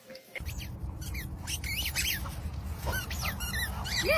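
Bird chirping in short, high calls that rise and fall, several a second, over a steady low rumble, all starting about half a second in.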